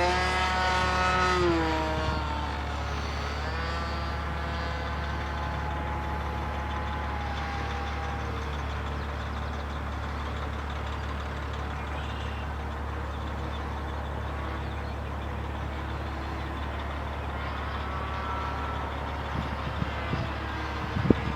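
An engine's pitched note passes, falling in pitch about a second and a half in, returning and falling slowly again over the next few seconds, and coming back briefly near the end, over a steady low hum.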